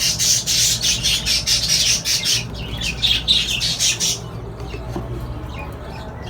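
Many caged small parrots, budgerigars and lovebirds, chattering and squawking at once over a steady low hum. The chatter thins out about four seconds in.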